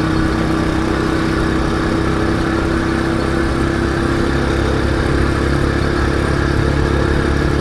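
Motorcycle engine running at a steady pitch while riding, over a steady rush of road noise.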